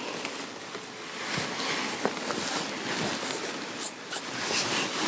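Fabric rustling and rubbing as a garment is handled, in short irregular swishes.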